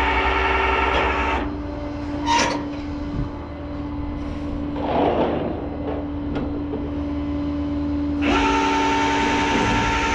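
A steady mechanical hum with a motor whine over it, which stops about a second and a half in and starts again about eight seconds in.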